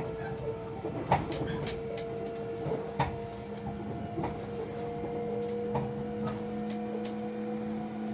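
Cabin running noise of a 683 series electric train under way: a steady hum whose main tone rises slightly, with scattered clicks and knocks, two of them louder about a second and three seconds in.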